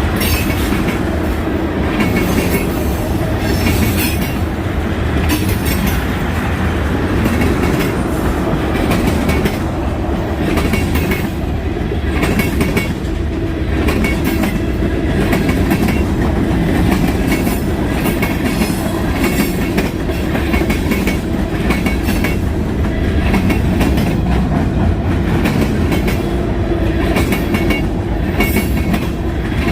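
Freight train cars rolling past with a steady rumble, their wheels clicking over the rail joints, with short bursts of high wheel squeal now and then.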